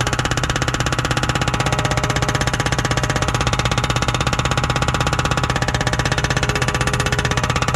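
Hydraulic breaker hammer on a Yanmar B37 mini excavator pounding hard rock, a rapid, even hammering of about ten blows a second over the excavator's engine running under load.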